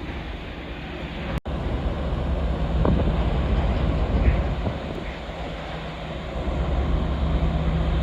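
Steady low engine hum with a noisy rumble over it, cutting out for an instant about a second and a half in.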